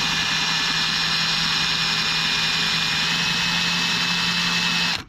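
Electric drill running steadily under load as a blunt drill bit bores into a snapped-off bolt in an engine cylinder head; it stops near the end.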